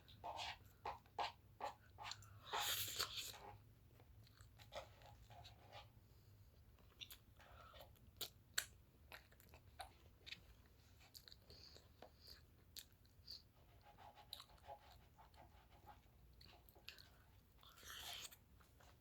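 Someone chewing and eating close to the microphone: fast wet mouth clicks and chewing in the first few seconds, then quieter, sparser clicks, with a short louder burst near the end.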